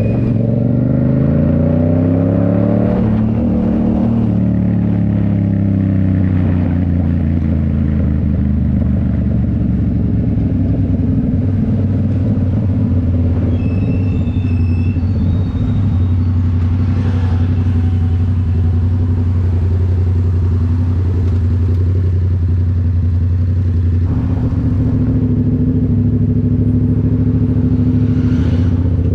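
2019 Yamaha MT-07's parallel-twin engine through a Toce full exhaust, heard while riding. Revs fall as the bike slows over the first several seconds, then hold steady at a cruise, and rise a little near the end.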